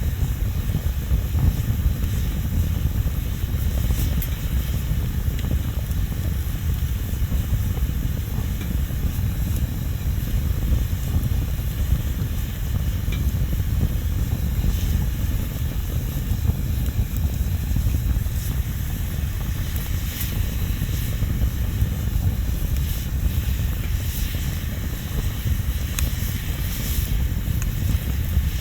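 Wood bonfire burning: a steady low rumble with scattered crackles and pops from the burning wood, a few more of them in the second half.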